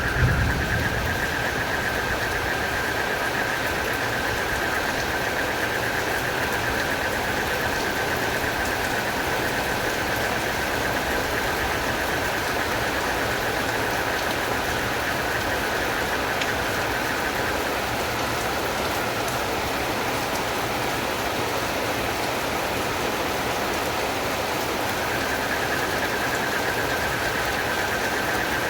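Steady heavy rain, with a continuous high trill from a night chorus of frogs and crickets that fades out past the middle and comes back near the end. A short low thump sounds right at the start.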